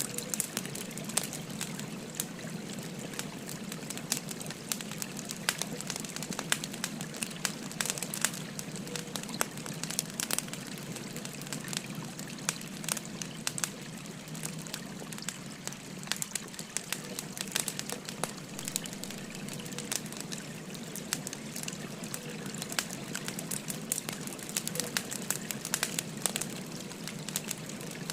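Wood fire crackling with frequent sharp pops and snaps over the steady trickle of a babbling stream.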